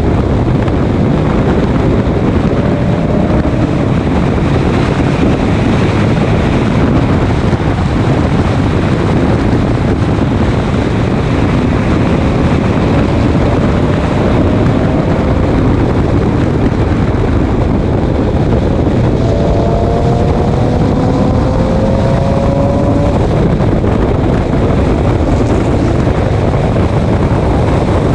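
Race car at speed: a loud, steady mix of engine, wind and road noise, with a faint engine note rising a few times as the car accelerates.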